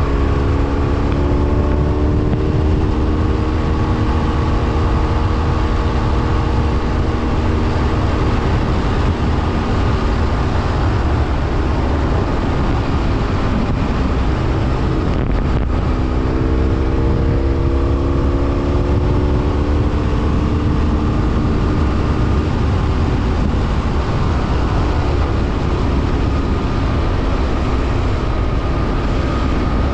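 BMW F800R's parallel-twin engine under way, its note climbing as it pulls at the start and again about halfway through, over a heavy, constant rumble of riding wind on the microphone.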